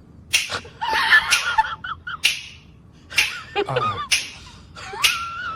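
A person laughing in short, breathy bursts, ending in a high, wavering squeal.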